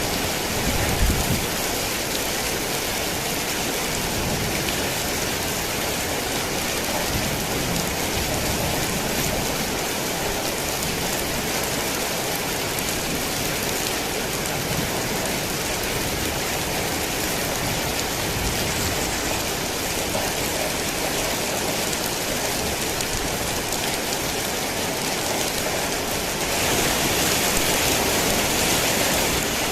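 Heavy rain falling steadily in an even hiss. There is a brief low thump about a second in, and the rain grows louder and harsher for the last few seconds.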